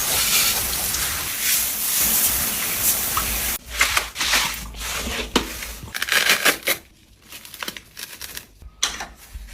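Rustling and crinkling noises from household cleaning: a dense rustle for the first few seconds, then short, uneven rustles and scrapes that thin out toward the end.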